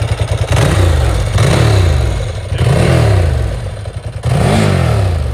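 Ducati 888 Strada's 888cc desmodromic V-twin revved in four quick throttle blips from idle, each rising and dropping back.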